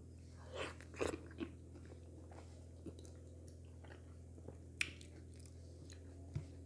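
Close-up mouth sounds of a person chewing a mouthful of wheat fufu with okra soup: wet smacking clicks, a cluster about a second in and single sharp ones near five and six and a half seconds. A steady low hum runs underneath.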